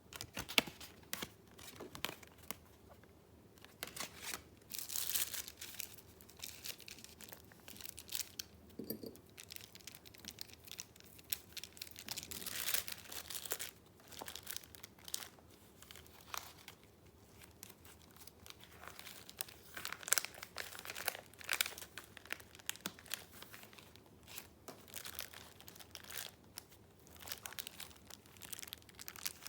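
Paper being handled: sheets rustling and crinkling in short, irregular spells as they are picked up, turned and shuffled.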